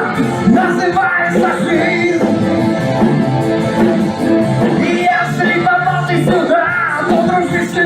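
A band playing a rock-and-roll song, with a singer over guitar accompaniment.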